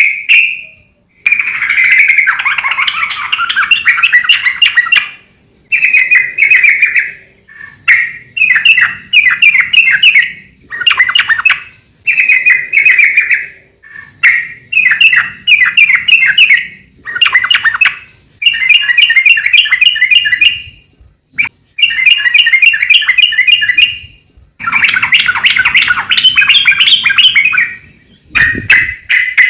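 Yellow-vented bulbul (trucukan) singing in repeated bubbly, chattering phrases of one to three seconds, separated by short pauses. A brief low thump sounds near the end.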